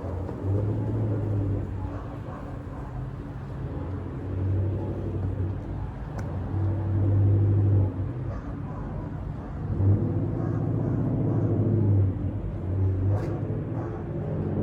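Wind buffeting the microphone in gusts, a low rumble that swells and drops every second or two, with a couple of faint knocks.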